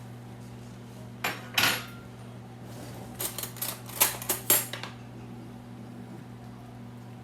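Cutlery and dishes clinking in a kitchen: a couple of sharp knocks about a second in, then a quick run of clinks between about three and five seconds in.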